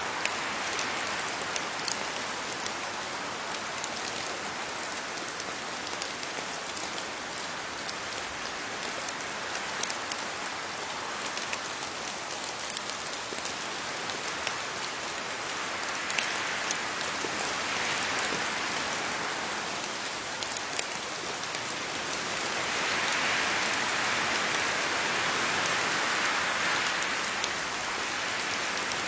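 Steady rain pattering on leaves, many separate drops ticking through an even hiss. The rain grows a little heavier for a while in the second half.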